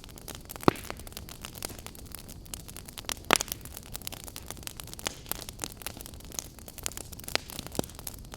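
Wood campfire crackling over a steady hiss, with many small snaps and two louder pops, one near the start and one about three seconds in.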